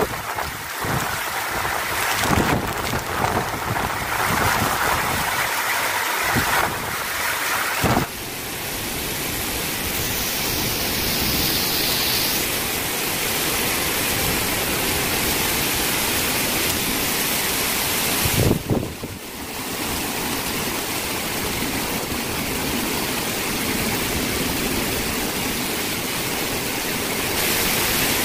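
Heavy rain pouring down in strong wind: a loud, steady hiss with no distinct strokes, which changes abruptly about eight seconds in and dips briefly near nineteen seconds.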